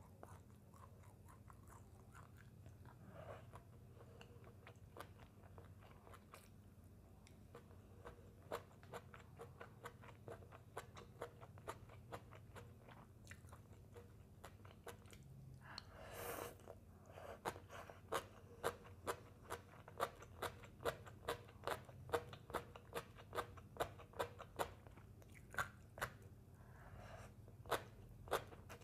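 Close-up crunchy chewing of shredded green papaya salad (som tam): a run of crisp crunches at about two a second, louder in the second half.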